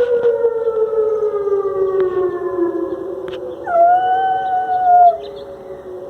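Dog howling: long, slowly falling howls, with a higher, louder howl held for about a second and a half near the middle.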